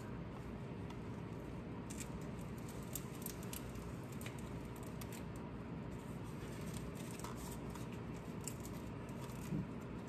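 Faint, scattered clicks and light handling noises of hands working on tape-wrapped universal-joint caps of a drive shaft, over a steady low hum.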